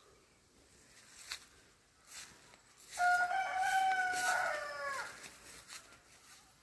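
A rooster crowing once, one long call held at a high pitch that falls away at the end.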